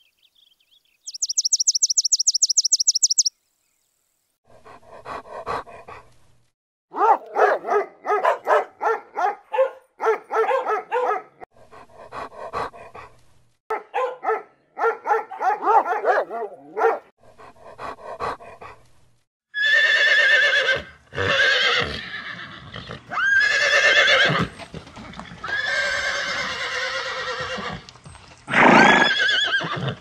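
A great tit's quick, high trill about a second in, then a dog vocalizing in quick runs of pulsed calls, then several horses whinnying over the last third, the loudest neigh near the end.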